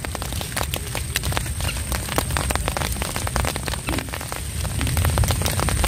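Rain falling onto the open water of a swamp lake: a dense, uneven patter of many separate drop hits, over a low rumble that grows a little louder near the end.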